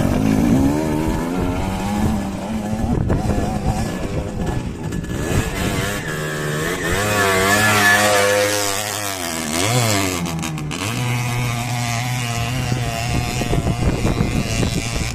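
Enduro dirt-bike engine revving up and down under changing throttle. Its pitch climbs to a peak about eight seconds in, dips sharply near ten seconds, then holds steadier.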